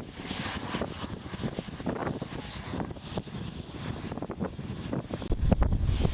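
Jet airliner engines running, heard through wind buffeting the microphone, with a heavy low rumble near the end.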